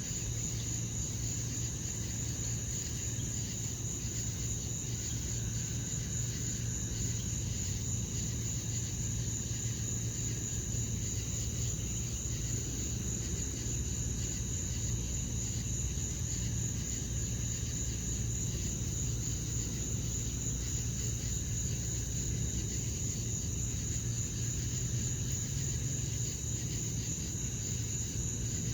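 Crickets chirping in a steady, unbroken high-pitched chorus, over a low steady hum.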